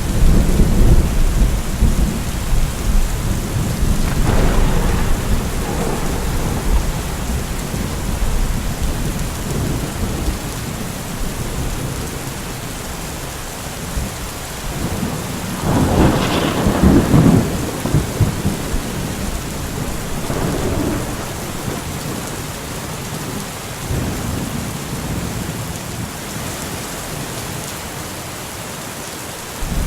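Steady rain falling through a thunderstorm, with rolling thunder: a rumble at the start, another a few seconds in, the loudest peal about halfway through, and fainter rumbles after it.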